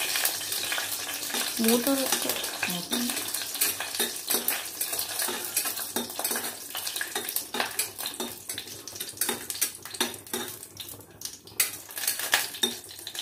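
Cashews frying in hot ghee in a stainless steel bowl, sizzling while a metal spoon stirs and clinks against the bowl; they are being roasted until lightly browned. The sizzle gets quieter in the second half.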